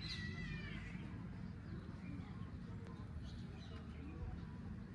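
A high animal call sliding down in pitch near the start, followed by faint, scattered high chirps over steady low background noise.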